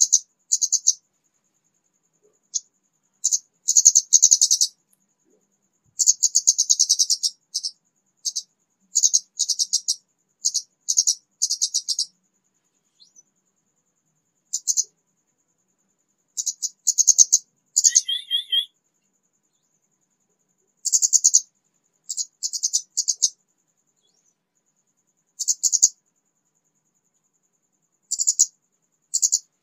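Orange-headed thrush, an untrained bird just beginning to sing: short bursts of high, rapid twittering notes every second or two, with one lower, two-pitched phrase about eighteen seconds in.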